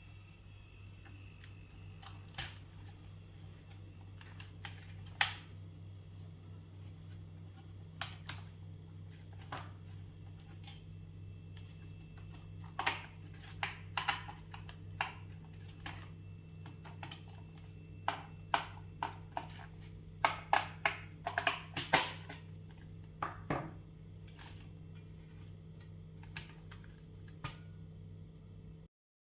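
Irregular clicks and clacks of IBM Model M keyboard parts being handled, in scattered groups with a few quick runs, over a steady low hum.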